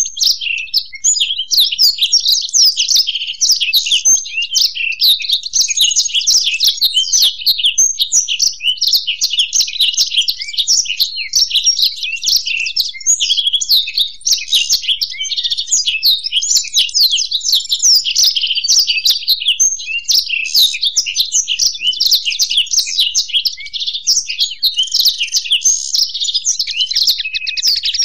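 Blackthroat (black-throated canary) and European goldfinch singing together: a dense, unbroken stream of fast twittering and chirping phrases. A rapid buzzy trill starts near the end.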